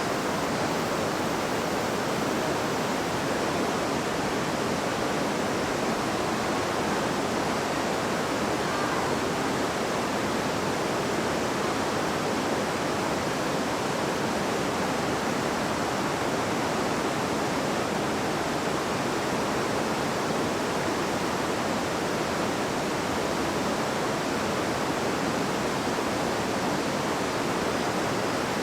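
River water rushing and babbling over rocks in a steady, unbroken wash of noise.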